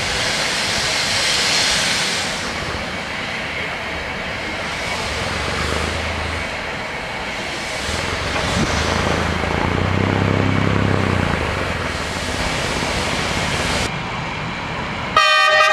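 Zillertalbahn narrow-gauge diesel railcars running through the station, a steady engine and rail rumble that swells about ten seconds in. Near the end, after an abrupt change in the sound, a passing Zillertalbahn train sounds a short horn blast.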